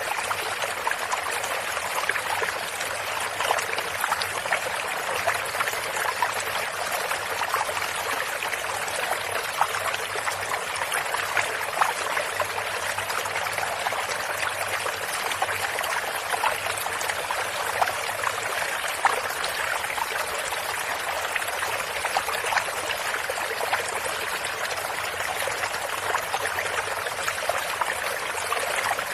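Running water of a stream or brook, flowing steadily with many small splashes and trickles.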